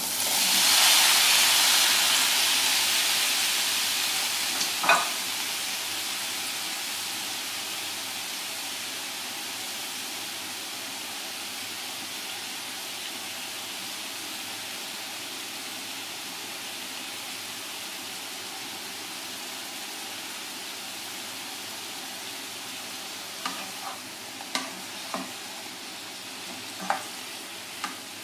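Diced pineapple dropped into hot olive oil in a frying pan, sizzling loudly at first and then slowly dying down. There is a knock about five seconds in and a few light knocks near the end, as a wooden spatula stirs the pieces in the pan.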